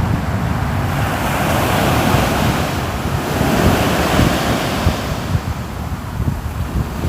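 Ocean surf: waves breaking and washing in, swelling twice in a row over a steady low rumble.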